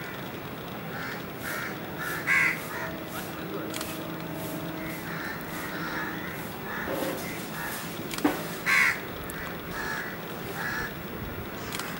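Crows cawing over and over in short harsh calls, two of them loud and close, about two seconds in and near nine seconds. A faint steady hum runs underneath, and there is a sharp click just after eight seconds.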